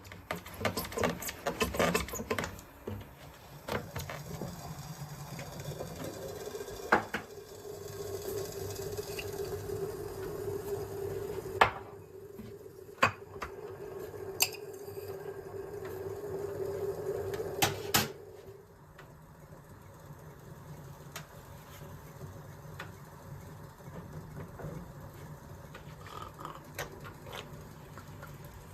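Kitchen sounds of breakfast being made: a quick run of clatters and knocks of dishes and utensils, then a small appliance humming steadily for about twelve seconds, with a few sharp clicks, before it stops two thirds of the way through.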